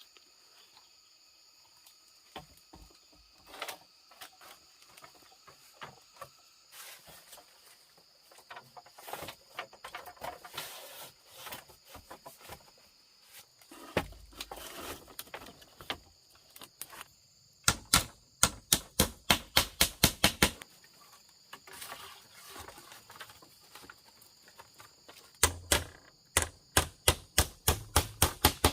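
Scattered rustling and handling knocks, then two runs of rapid, evenly spaced sharp knocks, about five a second, of a tool striking wood, over a steady high insect drone.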